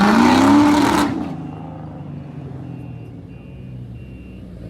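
A car engine revving loudly, its pitch climbing, then dropping back to a steady idle about a second in. A faint high beeping repeats evenly behind the idle.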